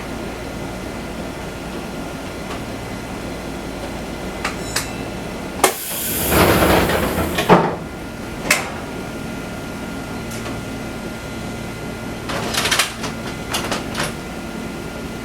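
Fukui Railway 200-series train standing with its on-board equipment humming steadily. About six seconds in, a loud hiss of released compressed air lasts nearly two seconds. Sharp clunks and knocks come around it and again near the end.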